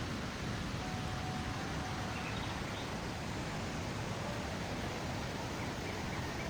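Steady outdoor rushing noise, with a few faint high bird chirps about two seconds in and again near the end.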